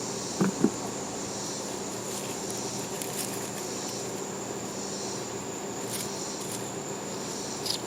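Insects trilling steadily, a constant high-pitched drone with pulsing chirps about once a second, over a low steady hum. Two short knocks come near the start.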